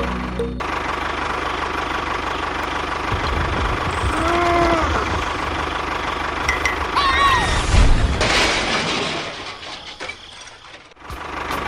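A small motor running steadily with a constant whine, joined by a few short rising-and-falling pitched sounds. It drops away briefly near the end and then starts again.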